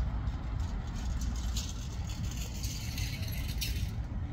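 Passenger express train running on the track in the distance, moving away. There is a steady low rumble, and a rattling hiss swells in the middle and fades near the end.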